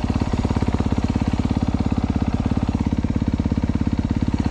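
2022 Honda CRF250R's single-cylinder four-stroke engine idling steadily while warming up, with an even, rapid pulsing exhaust beat.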